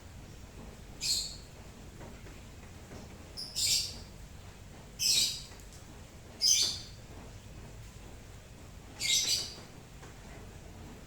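A bird chirping five times in short, high bursts, spaced a second or two apart, over a steady background hiss of rain.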